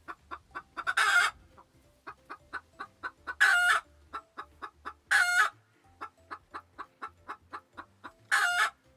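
Chicken clucking in a quick run of short clucks, about three or four a second, broken four times by a louder, longer squawk.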